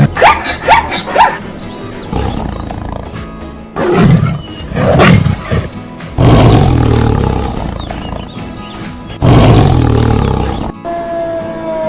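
A large wild animal roaring: a quick run of four short calls, two shorter calls a few seconds later, then two long, loud roars that fade away.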